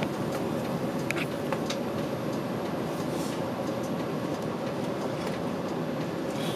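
Route bus driving, heard from inside the cabin: a steady mix of engine and road noise with scattered small rattles and clicks.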